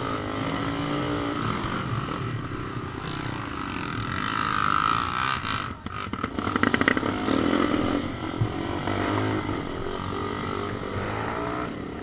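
Trail motorcycle engine running and revving up and down, turning rough and pulsing for a moment about six seconds in.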